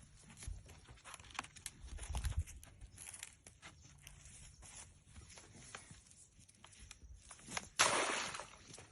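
Plastic garden hose being worked onto a pump or filter fitting by hand: scattered clicks, scrapes and rustles, with a louder burst of rustling near the end.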